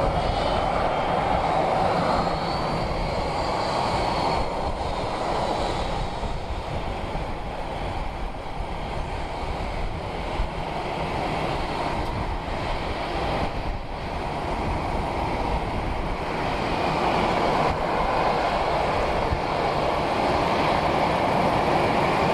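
Airplane engine noise: a steady rushing roar with a faint high whine in the first few seconds, growing louder in the last few seconds.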